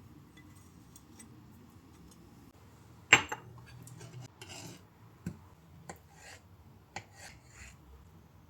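Objects being handled: a sharp knock about three seconds in, then a few lighter clicks and taps with short rustles between them.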